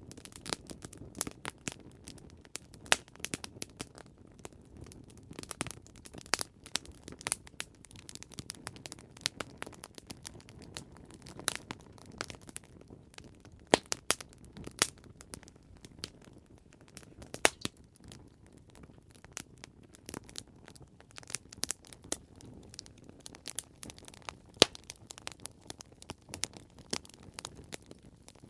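Wood campfire crackling: irregular sharp pops and snaps, several a second, over a low steady hiss of burning, with a few louder snaps scattered through.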